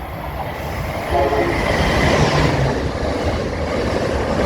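A passenger train coming through the station, its wheels and engine rumbling and growing louder.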